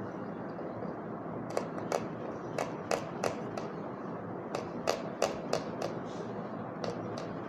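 Kitchen knife chopping vegetables and herbs: sharp, irregular taps in short runs over a steady hiss.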